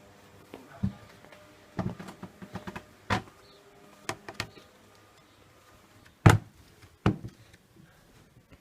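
A door being handled: scattered clicks and knocks, then two loud thuds a little under a second apart near the end.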